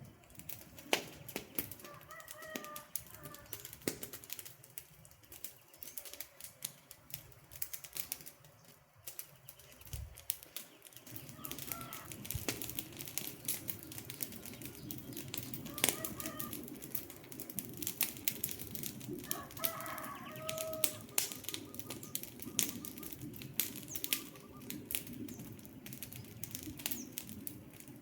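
Wood campfire crackling, with constant sharp snaps and pops and a low rushing burn that grows fuller about a third of the way in. A bird calls briefly a few times in the background.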